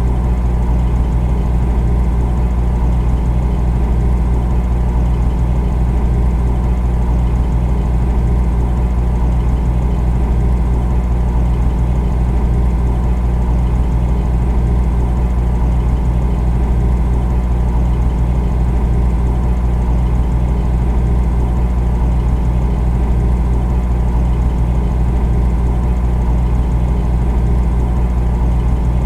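Refrigerator running: a steady low hum with a fainter even hiss above it.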